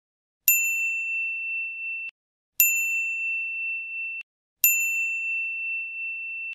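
Electronic ding sound effect played three times, about two seconds apart: a bright, steady, bell-like tone that starts with a sharp strike, rings for about a second and a half and then cuts off abruptly.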